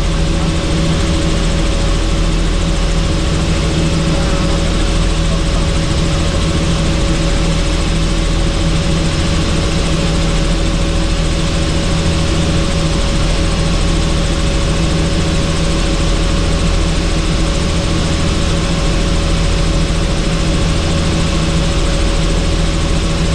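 Helicopter running steadily: an even, loud mix of a few fixed hum tones and a broad rushing noise that does not change.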